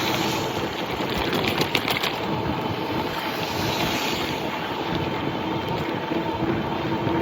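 Electric bike riding at speed: a steady hum from the electric motor over constant tyre and wind noise, with a short burst of rattling clicks about one to two seconds in.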